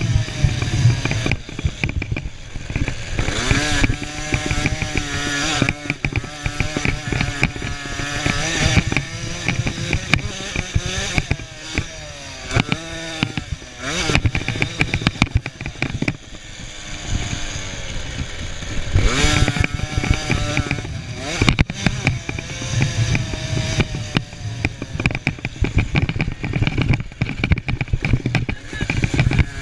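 Small 50cc two-stroke motocross bike engines revving hard, their high, buzzing pitch rising and falling again and again as the throttle is opened and shut through the race.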